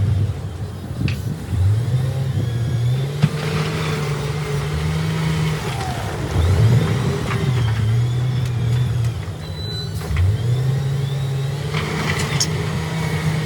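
Heavy diesel construction machine's engine revving up and down several times under load, with a sharp knock about three seconds in.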